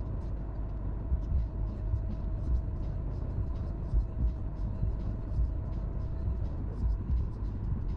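Car cabin noise while driving on a snowy road: a steady low rumble with irregular bumps and scattered light ticks.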